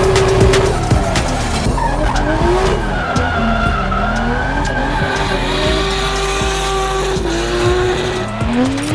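Drift car driven hard: the engine revs rise and fall again and again while the tyres squeal and skid through slides.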